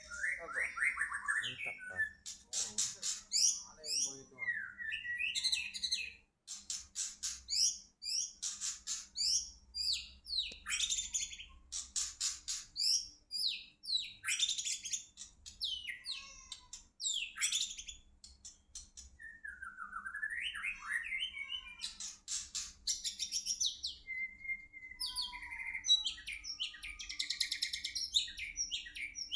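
White-rumped shama (murai batu) singing: a long, varied run of rich whistles, fast chattering trills and sweeping notes, phrase after phrase with short pauses between.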